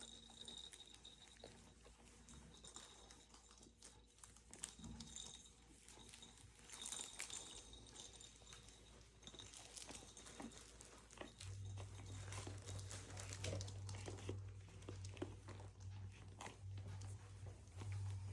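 Toy schnauzer puppies playing: faint scattered scuffling, rustling and small clicks. A low steady hum comes in about two-thirds of the way through.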